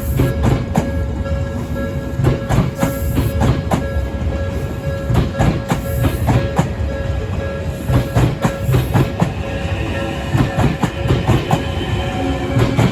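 A train passes over the level crossing, its wheels clacking rapidly over the rail joints over a steady rumble, while the crossing's warning bell rings steadily.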